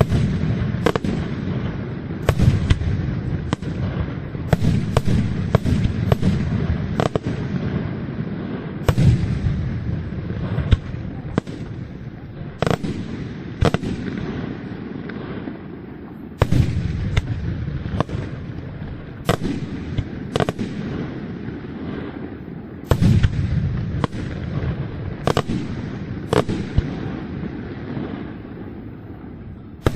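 Aerial fireworks display: a rapid, irregular run of shell bursts, sharp bangs with rolling echoes over a continuous low rumble, swelling in fresh volleys about halfway through and again a little later.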